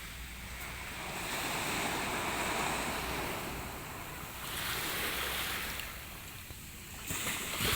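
Sea surf breaking and washing up the beach, swelling and easing in turn as each wave comes in, with some wind on the microphone.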